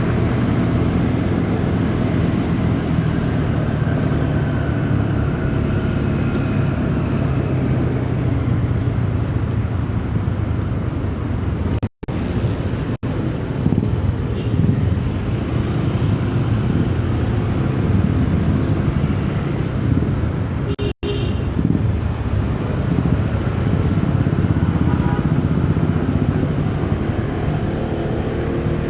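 Motorcycle engine running steadily under road and traffic noise while riding through city streets. The sound cuts out suddenly for an instant twice, about twelve and twenty-one seconds in.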